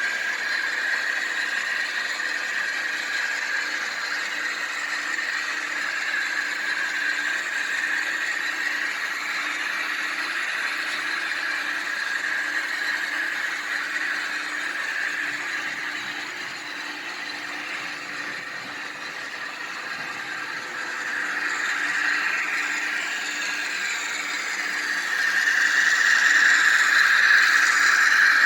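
HO scale model train running on the layout, a steady mechanical running sound that dips a little past the middle and grows louder near the end.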